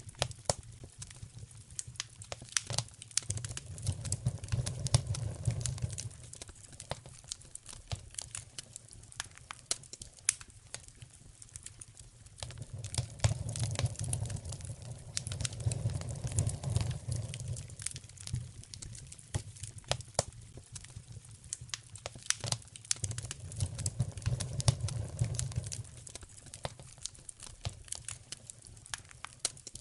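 Fireplace fire crackling, with frequent sharp pops all through. A low rumble swells up and fades three times, about four, fifteen and twenty-four seconds in.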